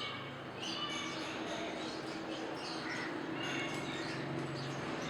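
A mix of aviary birds calling: parakeets, lovebirds and cockatiels giving short high chirps and squawks again and again, over a steady low drone.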